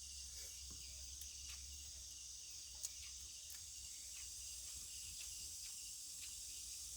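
Steady, faint high-pitched chirring of crickets or other insects, with a few soft clicks, one about three seconds in.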